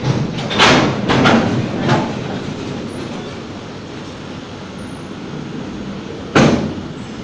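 Railway wagons rolling with a steady rumble, broken by sharp metallic clanks: three in the first two seconds and a louder one near the end.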